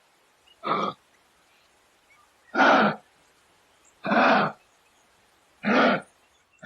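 An animal calling four times, each call short and about a second and a half apart.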